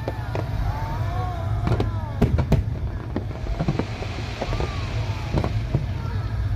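Fireworks going off in a series of sharp, irregularly spaced cracks, over a low rumble and crowd chatter.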